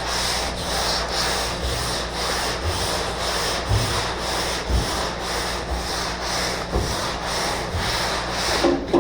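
Coarse sandpaper rubbing steadily over body filler on a car's bodywork, with a regular pulse about three times a second.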